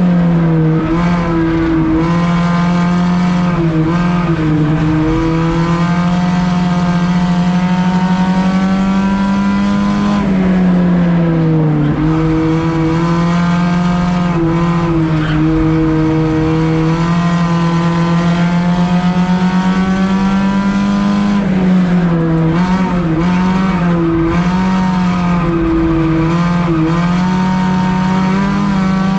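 Engine of a stripped-out race car running hard, heard from inside its gutted cabin. The engine note holds steady and sags twice, about ten seconds apart, before coming back up, as it goes through the turns of an oval.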